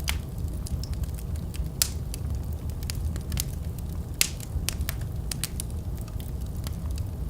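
Fireplace fire crackling, with irregular sharp pops over a steady low rumble; two louder pops stand out, about two and four seconds in.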